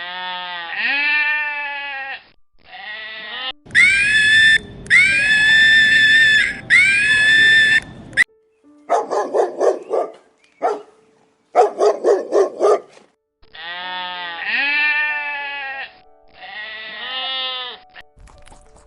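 Goats bleating: a string of separate wavering calls, three loud high-pitched ones in the middle, and a group with a quick tremble after them.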